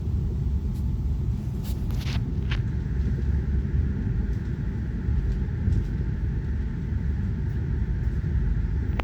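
High-speed train running at speed, a steady low rumble heard from inside the carriage, with a few faint clicks about two seconds in.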